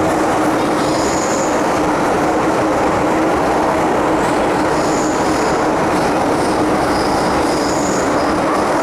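MTR Metro-Cammell M-Train EMU running through the tunnel, heard from inside the car: a steady, loud rumble of wheels and running gear with a held low hum. Brief high wheel squeals come and go several times.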